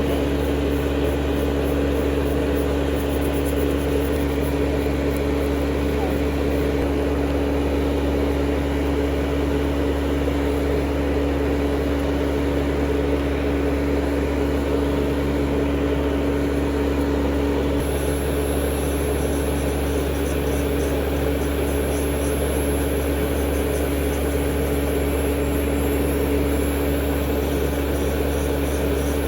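Electric nail file (e-file) running steadily, a continuous motor hum with a steady pitch that shifts slightly about two-thirds of the way through.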